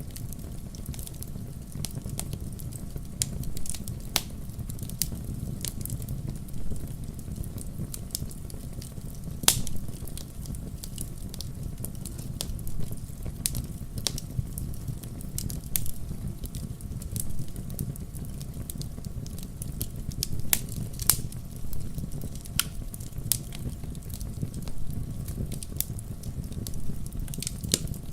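Wood fire in a fireplace crackling: irregular sharp pops and snaps over a steady low rumble of the flames, with louder pops about a third of the way in and again about three quarters through.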